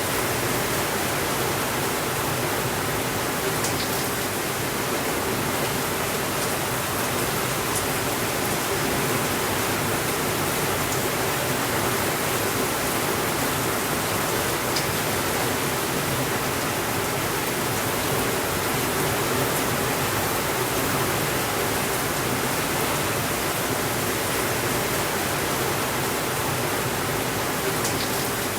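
Steady rainfall, an even rushing hiss with no changes in level. A few faint clicks show up now and then, about four seconds in, near the middle and near the end.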